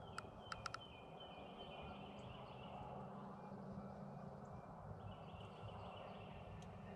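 Faint outdoor ambience with distant birdsong, high steady notes that step in pitch, and four quick sharp clicks in the first second.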